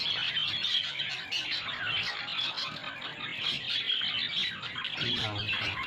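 Budgerigars chattering: a continuous, dense warble of quick, high chirps and squeaks.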